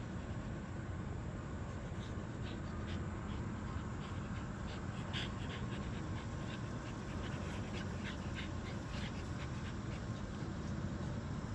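American Bully puppy panting and mouthing a toy, with scattered light clicks over a steady low rumble.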